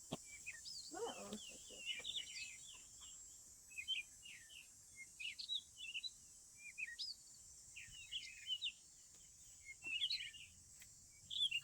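Songbirds chirping: many short, quick calls, one after another, over a steady high hiss.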